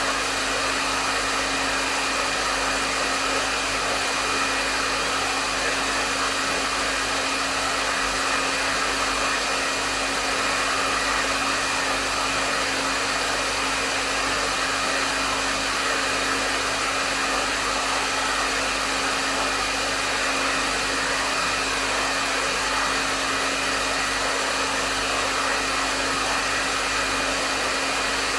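Hair dryer running steadily: an even rush of airflow with a constant motor hum, unchanging throughout.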